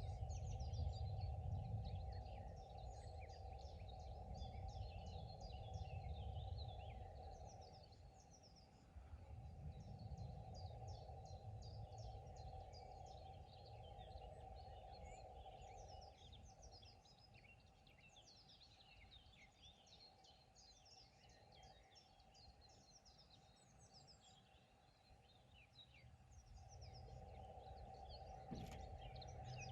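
Wild birds singing and calling around a pond, many short overlapping chirps and trills. A low rumble and steady hum lie underneath, fading about halfway through and returning near the end.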